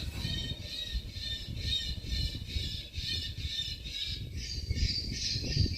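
Bird-deterrent loudspeaker system broadcasting recorded bird screaming: harsh, high calls repeating several times a second, with a low rumble underneath.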